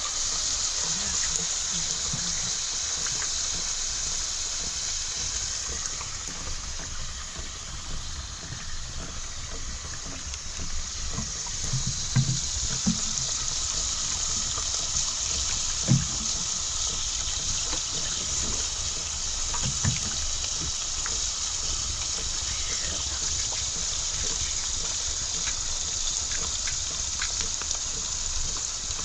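Steady rush of water, with a few dull low knocks about halfway through.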